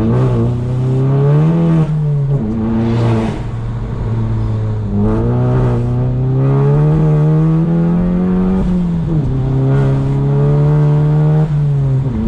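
Turbocharged 2.0-litre four-cylinder of a Stage 2-tuned MK7 Golf GTI accelerating hard. The revs climb and drop sharply at each of several gear changes.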